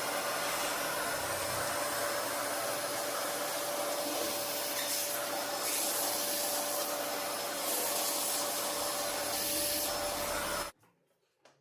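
Vacuum cleaner running steadily with a high whine over its rushing air, cleaning dust out of a television. It stops abruptly near the end, leaving a few faint ticks.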